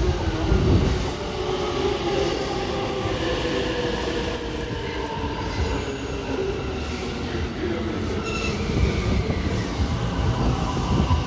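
JR 255 series electric limited-express train pulling into a station, a steady rumble of the cars passing with drawn-out squealing tones from wheels and brakes as it slows to stop. A loud surge comes about half a second in.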